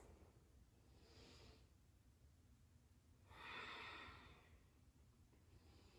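A woman breathing audibly through a quiet room: a faint breath about a second in, then a fuller breath lasting about a second, paced with slow movement.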